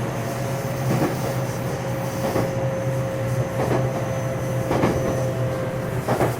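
Running noise heard inside a JR West 227-series electric multiple unit (Hitachi IGBT VVVF-controlled motor car) at steady speed: a continuous rumble with wheels clicking over rail joints about once a second. A steady whine from the traction equipment holds one pitch and stops about five seconds in.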